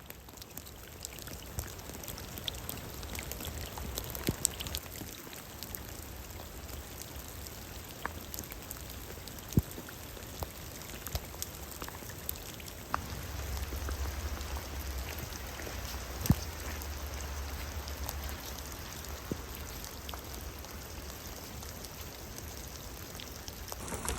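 Heavy rain falling steadily, with individual drops striking close by as sharp taps, the loudest two about ten and sixteen seconds in. A low rumble comes in for a few seconds around the middle.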